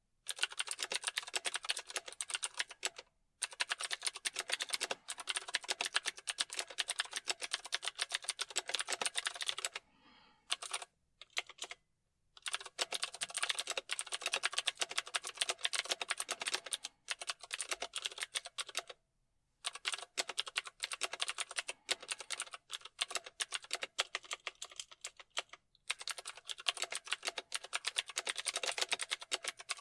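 Fast typing on a computer keyboard: dense runs of quick keystroke clicks, with a few short pauses, the longest about ten seconds in.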